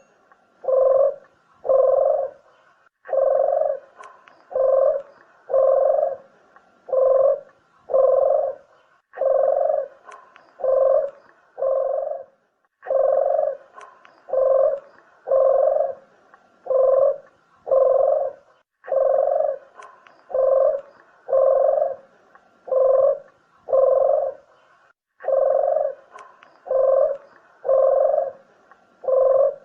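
Puter (collared dove) cooing over and over, about one low coo a second in runs of four to six with short pauses between, a lure call for drawing in doves.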